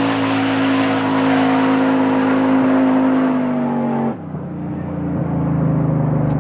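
Turbocharged drag-racing truck's engine held at high revs under full throttle during a pass, its note sinking slowly, then cutting off abruptly about four seconds in as the throttle is released, leaving a lower, steady engine note.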